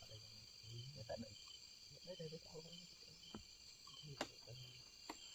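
Faint insects chirping in the background: a steady high trill with a pulse repeating about every half second, and a few soft clicks.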